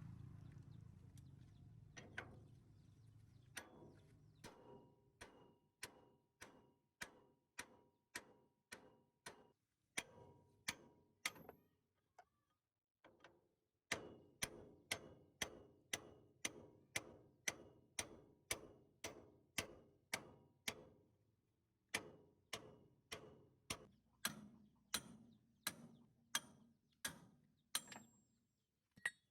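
A hammer tapping on metal in a steady rhythm, about three strikes every two seconds, each with a short metallic ring, pausing briefly about twelve seconds in.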